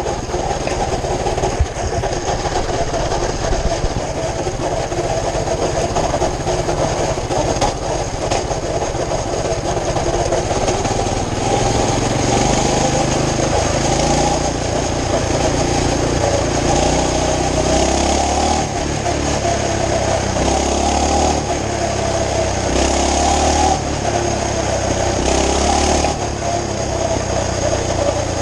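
Small pull-start mini bike engine running. From about eleven seconds in, its speed rises and falls in steps.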